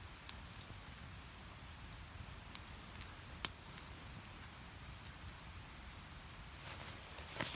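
Wood fire burning, with sporadic sharp crackles and pops from the split firewood, the loudest pops about two and a half and three and a half seconds in, over a faint low rumble.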